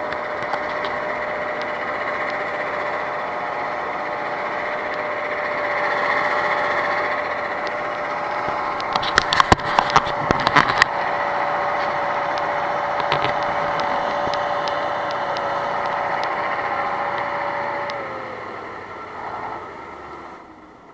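Off-road vehicle engine running steadily with a steady whine, and a cluster of sharp clicks and knocks about halfway through. Near the end the whine slides down and the sound fades away.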